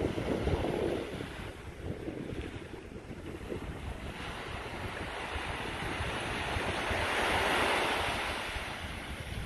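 Wind buffeting the microphone over the wash of sea waves, with a louder surge of surf about seven seconds in.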